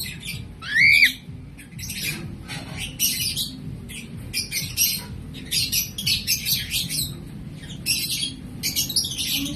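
Lovebirds chattering in a run of quick, shrill squawks and chirps, with one louder rising squawk about a second in.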